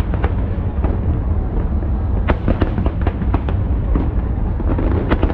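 Fireworks display: a continuous low rumble of shell bursts, with many sharp bangs and crackles going off in quick succession, thickest about two and a half and five seconds in.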